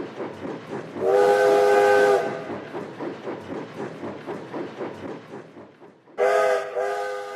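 Steam locomotive sound from a G-gauge PIKO tank engine's digital sound system: steady chuffing at about four beats a second, with two steam whistle blasts, the first about a second in and the second near the end.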